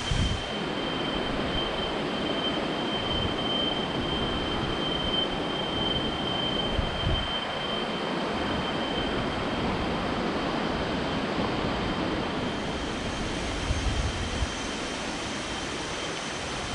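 Steady roar of a waterfall's rushing water, with a thin steady high whine over it that is strongest in the first half, and a few brief low bumps.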